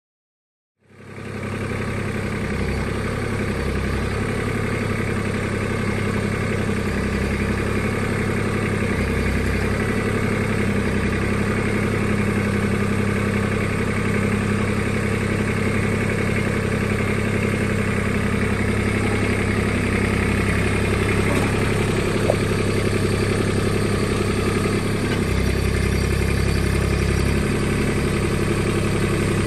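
Mahindra tractor's diesel engine running steadily, starting about a second in.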